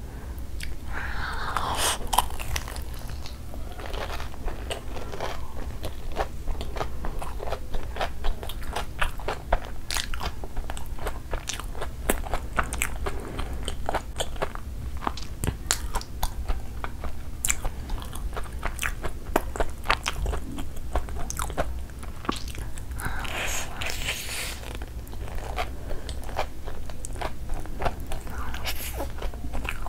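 Close-miked eating of fried, breadcrumb-coated potato-mozzarella cheese balls: crunchy bites into the crust and steady chewing with many wet mouth clicks. Louder crunching comes about a second in and again about 23 seconds in.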